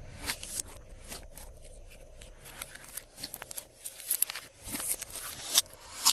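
Glossy slime being worked by hand, giving irregular sticky clicks and crackles, some in quick clusters, that grow louder in the second half.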